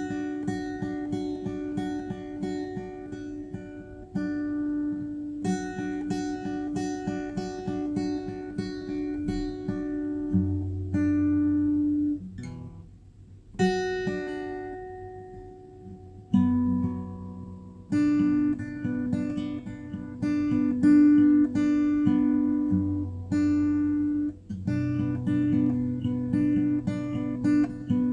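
Background music on acoustic guitar: a steady plucked pattern that pauses briefly about halfway through and comes back fuller and louder.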